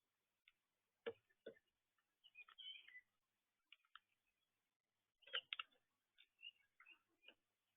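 Faint clicks and knocks from birds at a feeder, with a few short, high chirps in between. The loudest knocks come about a second in and again past the middle.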